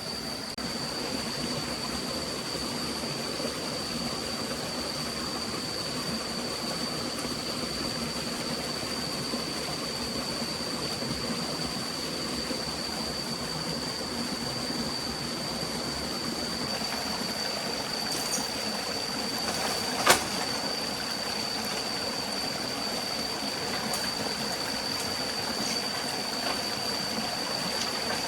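Steady rush of a flowing forest stream, with a thin constant high whine above it and one sharp click about twenty seconds in.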